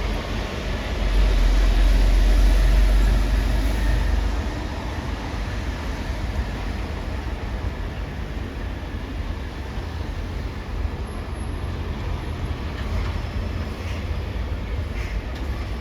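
Heavy vehicle rumbling past. The deep rumble swells for a few seconds near the start, then eases into steady traffic noise with a low drone.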